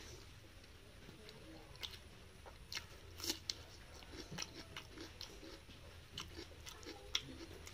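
Close-up eating sounds: soft chewing with short, irregular mouth clicks and smacks as rice and curry are eaten by hand.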